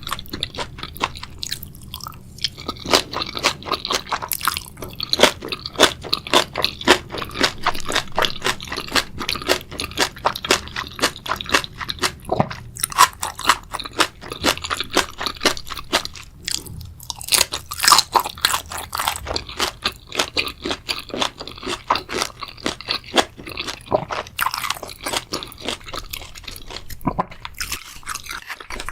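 Close-miked ASMR eating sounds: steady chewing with wet crunches and crackles of a spicy seafood boil.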